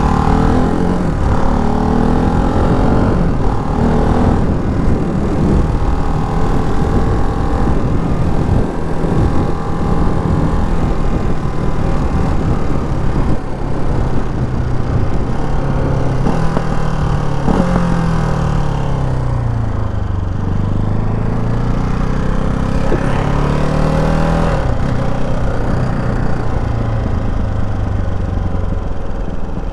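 Ducati Hypermotard 698 Mono's single-cylinder engine running under way, its pitch rising and falling as the rider works the throttle. It drops off about two-thirds of the way through as the bike slows, then climbs again as it accelerates.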